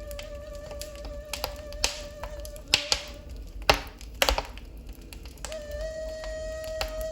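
Wood fire in a fireplace crackling, with sharp irregular pops. Under it a ney flute holds a long, steady note that fades out about halfway through, and a new, slightly higher note starts near the end.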